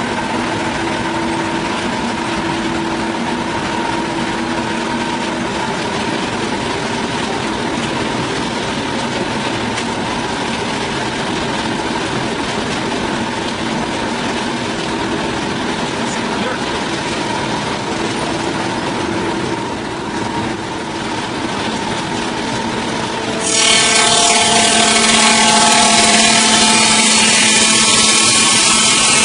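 A motor-driven saw running steadily, then suddenly much louder and higher-pitched near the end, as the saw goes to full speed.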